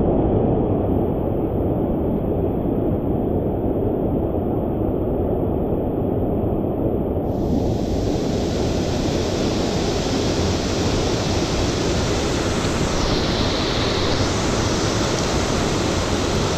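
Steady rushing of stream water, an even dense noise. About seven seconds in it turns brighter and hissier.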